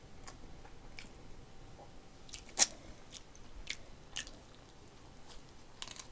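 A person chewing a mouthful of bossam pork wrapped with raw chili pepper, with scattered short crunches; the sharpest crunch comes about two and a half seconds in.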